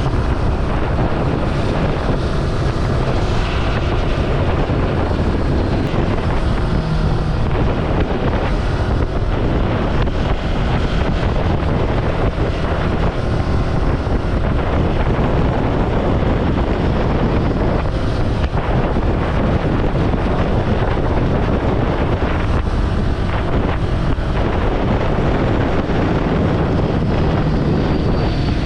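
Ducati Scrambler Sixty2 motorcycle riding at road speed: its small air-cooled V-twin engine runs steadily under heavy wind rush over the microphone, which covers most of the engine note.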